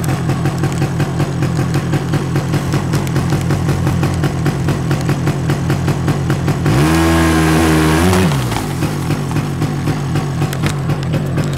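Polaris Sportsman 90 ATV engine running with an even pulsing beat. About seven seconds in it revs up sharply for a second and a half, then drops back. The throttle is surging although it is barely pressed, which the owner thinks could be an electrical problem.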